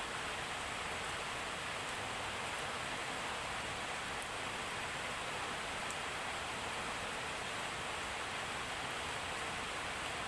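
Steady heavy rain, an even hiss with a few faint drop ticks.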